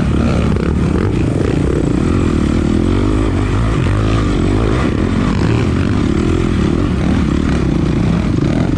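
Single-cylinder 450cc four-stroke dirt bike engine running steadily, its pitch holding nearly level with only small wobbles and no hard revving.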